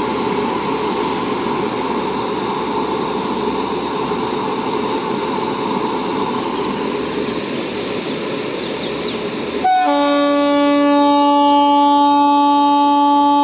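Indian Railways train running past with a steady rushing rail noise; about ten seconds in, the locomotive's horn starts and holds one long steady blast.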